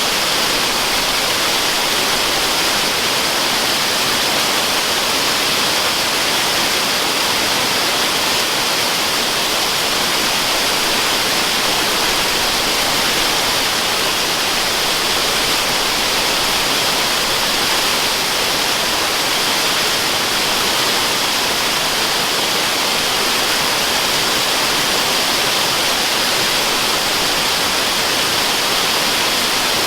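Waterfall white noise: a steady, even rushing hiss, heaviest in the high range and thin in the bass, with no change in level.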